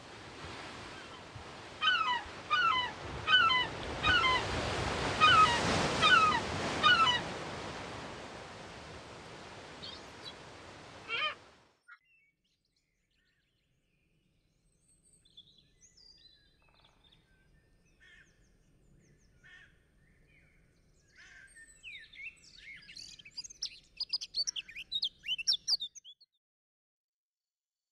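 Birds chirping in short repeated calls over a steady rushing background, which cuts off abruptly about eleven seconds in. After a short gap, fainter scattered bird chirps return and grow busier near the end.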